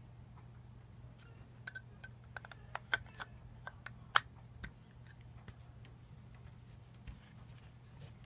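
Scattered small clicks and taps from handling the parts of a replica lightsaber hilt during disassembly, with one sharper click about four seconds in, over a faint steady low hum.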